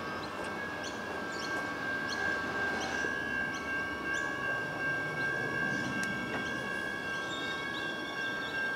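Adelaide Metro 4000 class electric train approaching in the distance, its rumble building slightly, with a steady high-pitched whine throughout. Birds chirp in short rising calls.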